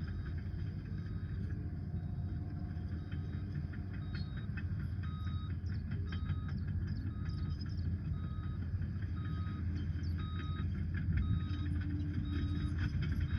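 Liebherr PR 746 crawler dozer working, its diesel engine running steadily under the clatter of its steel tracks. From partway through, an even beep sounds about once a second, typical of the machine's reverse alarm while backing up.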